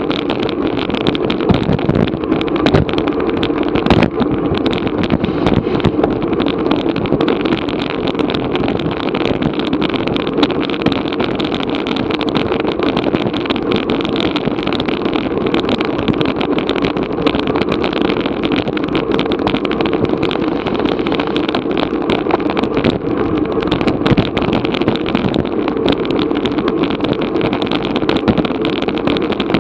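Steady rush of wind buffeting an action camera's microphone on a bicycle moving at race speed.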